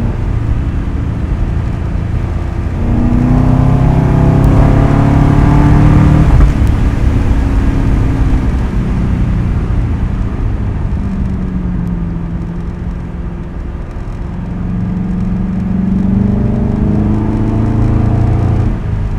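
2010 Ford Crown Victoria Police Interceptor's 4.6-litre V8 running through its new custom exhaust under way, accelerating twice: the engine note climbs about three seconds in, eases off, and climbs again near the end.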